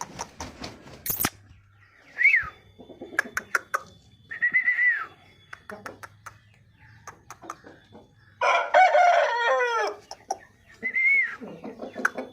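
A rooster crows once, a long call starting about eight and a half seconds in. Shorter rising-and-falling calls and scattered light clicks come before and after it.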